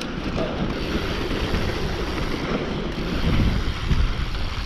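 Mountain bike descending a rough dirt trail: wind rushing over the microphone and tyres rumbling over the ground, with a few louder jolts about three to four seconds in.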